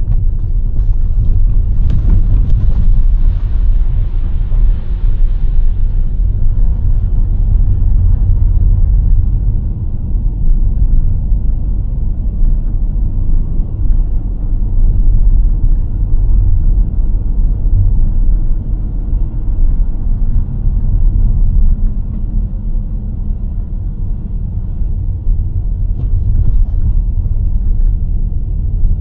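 A car driving: steady low rumble of engine and road noise, with a few seconds of added hiss near the start.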